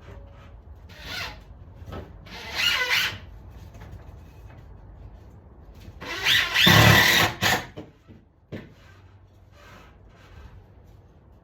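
Electrical tape being pulled off the roll in three rasping pulls: a short one about a second in, a longer one at about two and a half seconds, and the loudest and longest at about six seconds.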